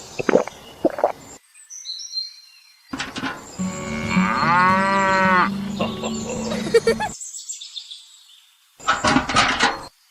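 A cow mooing once, a long call that rises and then falls in pitch. Short clatters and knocks come before and after it, starting and stopping abruptly.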